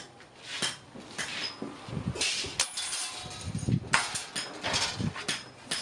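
Irregular clatter of short knocks and scraping noises, several a second, with a few dull thuds among them.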